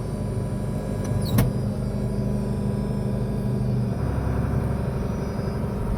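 A 100-horsepower tractor's engine running steadily, with a sharp knock about a second and a half in. About four seconds in, its note changes and a deeper rumble comes in.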